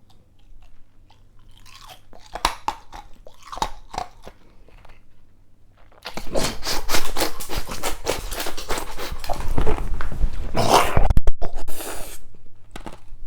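Ice cubes being crunched and chewed in the mouth, close to the microphone. First there are a few scattered crunches, then dense, loud chewing for about six seconds from halfway through, which tails off near the end.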